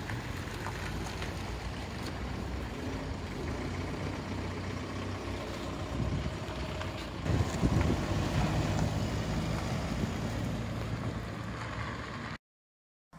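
Car engine running steadily at idle, growing louder about seven seconds in, then cutting off suddenly near the end.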